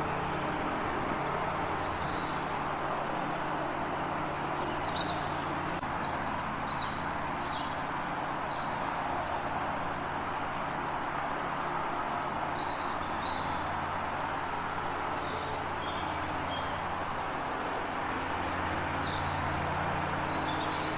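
Small birds chirping in short high calls, scattered through the whole stretch, over a steady background rush with a low hum.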